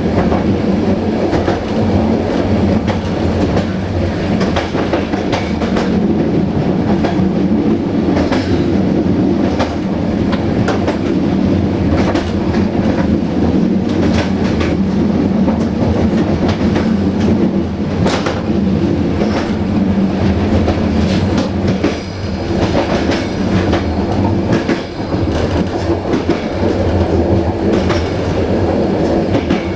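Train running on jointed track: a steady rolling rumble, with the wheels clicking irregularly over rail joints.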